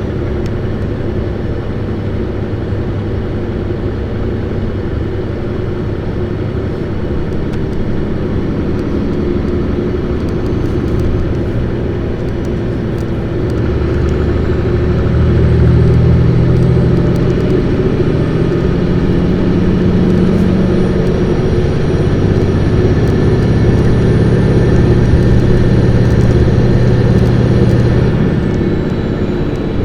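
Isuzu PKG-LV234Q2 city bus's diesel engine running under way, heard inside the cabin. About halfway through it works harder and louder, as the bus is driven with the engine revved hard, with a thin high whine rising over it; near the end the whine drops away and the engine eases off.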